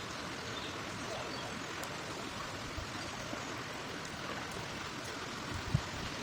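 Steady rushing of the Isar river's flowing water, with a single brief low thump near the end.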